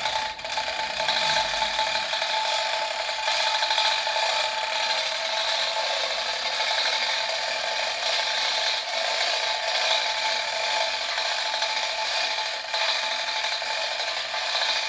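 A hoist running steadily as it lifts the cast-iron frame out of a Bechstein grand piano: an even mechanical whirring with a rasping edge that holds unchanged throughout.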